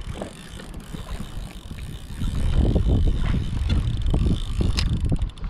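Wind buffeting the microphone on a kayak at sea, a gusty low rumble that swells about two seconds in, with scattered small clicks and a faint thin high whine.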